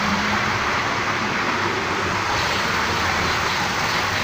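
Several Hornby model trains running at speed on their track: a steady whirring and rattling noise of small motors and wheels on rail.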